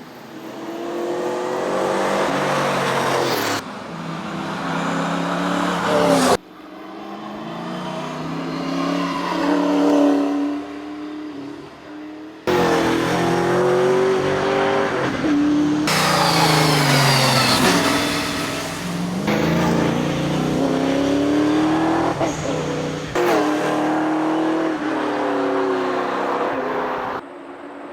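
Holden Torana SLR 5000's V8 engine revving hard in a tarmac rally run. The pitch climbs under acceleration, then drops sharply at gear changes and on the brakes. The sound jumps abruptly several times between passes.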